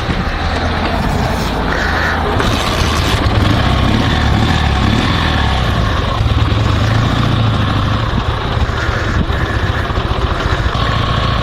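Dnepr MT16 sidecar motorcycle's 650 cc flat-twin engine running steadily as the bike rides off.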